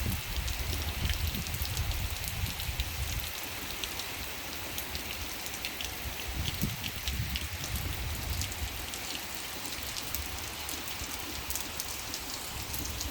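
Steady rain falling, with many separate drops ticking on a surface. A low rumble runs under it for the first three seconds or so and returns briefly past the middle.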